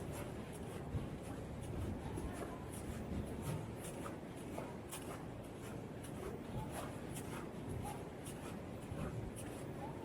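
Footsteps crunching in fresh snow, about two steps a second, over a steady low background rumble.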